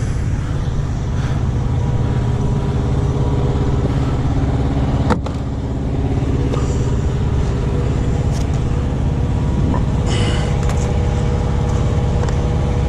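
Heavy truck engine idling steadily, with a sharp click about five seconds in and a short rustle about ten seconds in.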